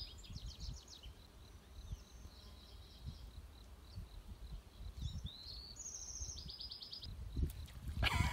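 A songbird singing the same short phrase at the start and again about five seconds in: a rising whistle followed by quick high trills, over a low rumble.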